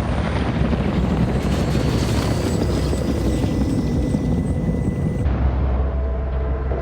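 Helicopter rotor and turbine noise on a film soundtrack, growing harsher from about a second and a half in. It is cut off abruptly about five seconds in, leaving a low steady drone.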